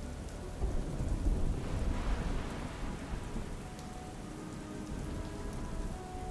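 Steady rain falling, with a roll of thunder that rumbles in about half a second in, swells, and dies away over the next few seconds. Faint held notes of ambient music sit beneath.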